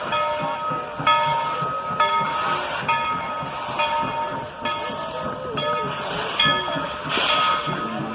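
Steam locomotive bell ringing about once a second, each clang dying away, over the hiss and chuff of steam.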